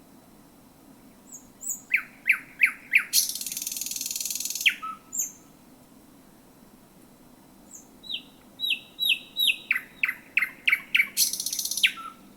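Thrush nightingale singing, heard close: two song phrases. Each is a run of sharp, loud repeated notes, the second run stepping down in pitch, followed by a harsh dry rattle lasting about a second and a half and a short low note at the end.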